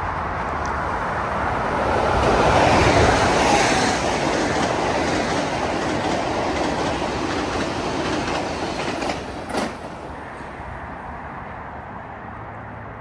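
Metro-North M8 electric multiple-unit commuter train passing at speed: a loud rush of wheels on rail with some clickety-clack, growing to its loudest about three seconds in and holding. A sharp knock comes about nine and a half seconds in, and then a fainter, steady rail noise follows.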